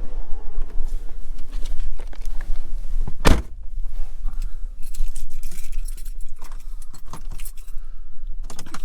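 Road and engine rumble inside a moving pickup's cab, with rapid rattling and clicking from loose items in the cab and one loud thump about three seconds in, as over a bump.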